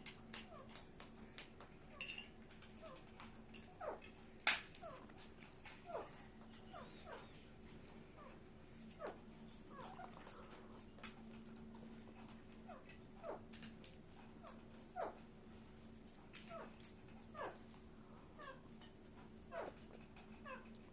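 A parrot making short, falling chirps again and again, roughly one every second or so, over a steady low hum. There is one sharp click about four and a half seconds in.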